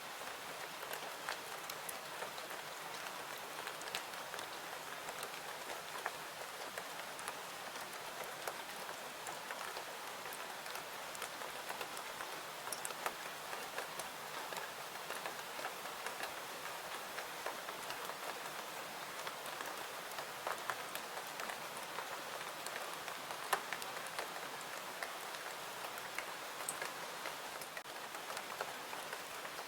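Steady rain: an even hiss with many scattered sharp ticks and clicks.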